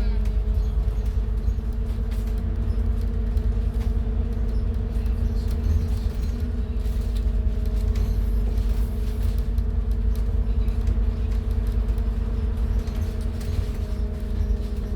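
Scania N280UD CNG double-decker bus heard from the top deck: its Scania DC09 engine running at a steady pitch, a continuous drone over a deep rumble, with no revving up or down.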